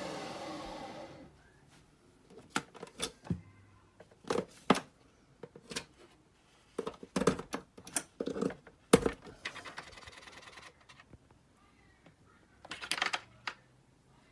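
Nespresso Vertuo Next's motor running, stopping about a second in. Then a series of sharp clicks, taps and knocks, as of hard plastic parts being handled, with a brief faint hiss in the middle.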